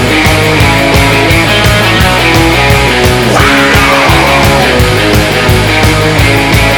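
Instrumental rock music: distorted electric guitars, bass and drums with a steady beat, with a falling swoosh or slide about three and a half seconds in.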